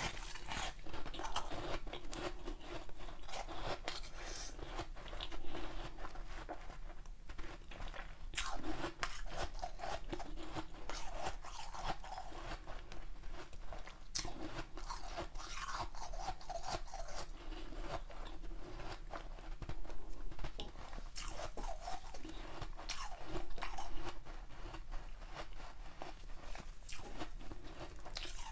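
A person biting and chewing hard ice: a steady run of crisp crunches and cracks, with louder bites every few seconds.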